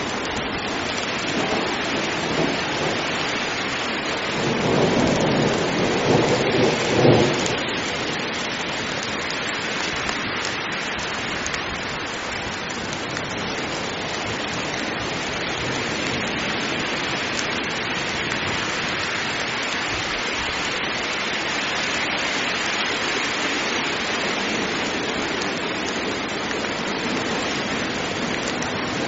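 Heavy rain falling steadily in a thunderstorm. A roll of thunder swells about four seconds in and dies away by about seven seconds.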